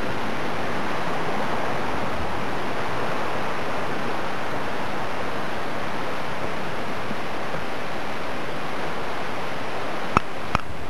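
Steady rush of fast-flowing water, running high after heavy rain. Two short sharp clicks sound near the end.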